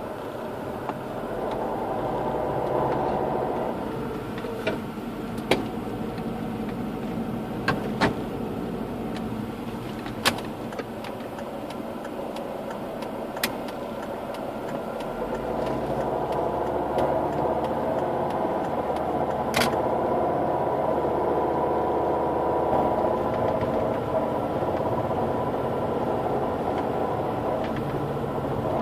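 Volvo V50 D5 five-cylinder diesel engine running steadily, heard in the engine bay, with a handful of sharp, irregular clicks in the first two thirds. This is the strange sound from the right side of the engine bay that the owner is trying to identify.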